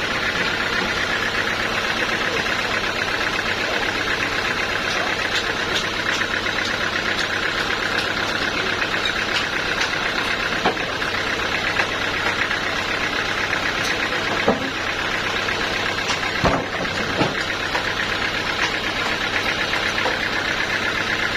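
Sawmill machinery running steadily: a constant motor hum with a fast, fine rattle, broken by a few sharp knocks past the middle.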